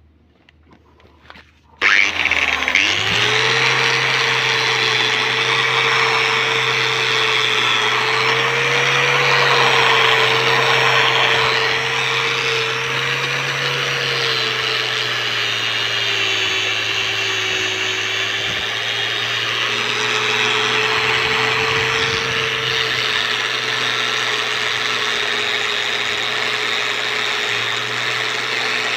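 Angle grinder with a wire-brush wheel starting about two seconds in, spinning up with a rising whine and then running steadily. It is scrubbing rust and carbon crust off a motorcycle exhaust header pipe, with a rough scraping noise, and its pitch dips slightly under load partway through.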